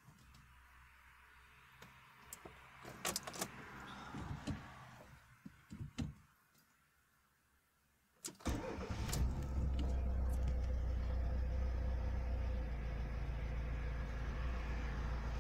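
Fiat Punto Mk1 60's engine being started after a timing belt replacement: a few clicks and knocks first, then it fires about eight seconds in and settles into a steady idle.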